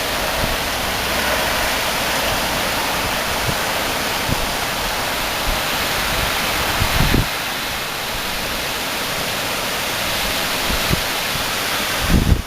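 Strong wind gusts: a steady, loud rushing hiss with low rumbles of wind buffeting the microphone, strongest about seven seconds in and again near the end.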